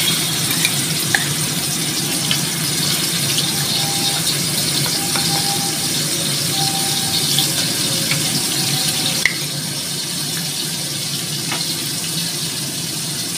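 Ground chili-and-shallot spice paste sizzling steadily in hot oil in a steel wok as it is stir-fried, with a few light clicks. The sizzle drops a little about nine seconds in.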